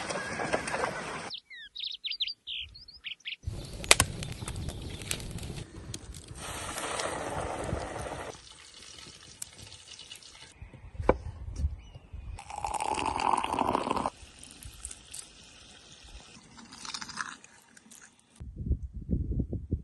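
A string of short, abruptly cut outdoor sound clips: running or pouring water and liquid, a brief run of bird chirps about two seconds in, and a few sharp knocks.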